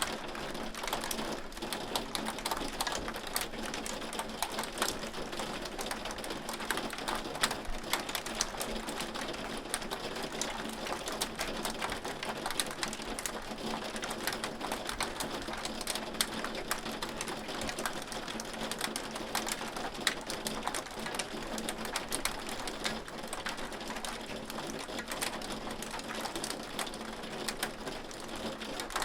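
Hailstones falling steadily, a dense, continuous patter of sharp ticks and clicks as they strike hard surfaces.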